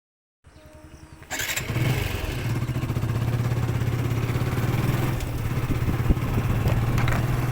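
Motorcycle engine starting with a sudden burst about a second in, then running steadily.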